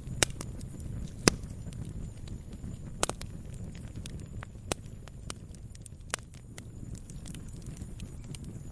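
Wood campfire crackling: irregular sharp pops and snaps, a few louder ones in the first three seconds, over a steady low rumble of burning.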